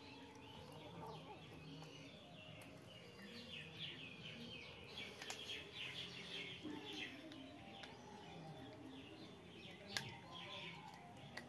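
Faint chirping of birds: many short, quick chirps, busiest in the middle. A single sharp tap sounds about ten seconds in.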